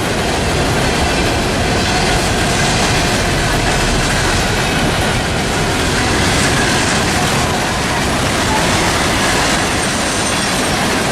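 A Norfolk Southern train's cars rolling past close by, a loud steady rumble of steel wheels on rail, with a faint high wheel squeal near the end.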